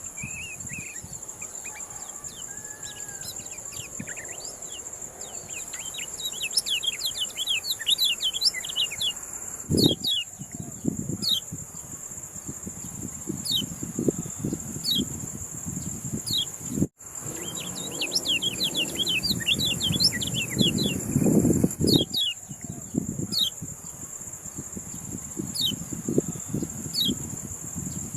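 Kecial kuning, a white-eye songbird, singing in quick runs of short, high, falling chirps, with pauses between runs, over a steady high-pitched whine.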